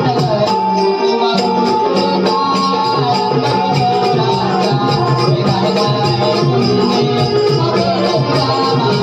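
Naman folk music: a steady beat of jingling, rattling percussion under a sustained pitched melody.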